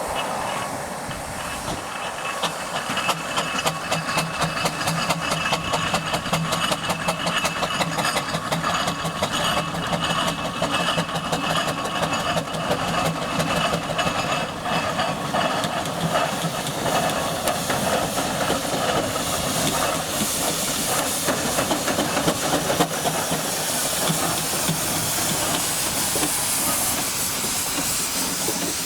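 Steam traction engine hissing steam, with a fast, even run of ticks over most of the first two-thirds; after that a steady high hiss of steam.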